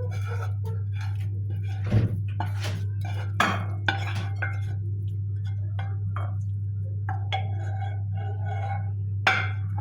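Dishes and cutlery being handled, with a few sharper clinks against each other, over a steady low hum.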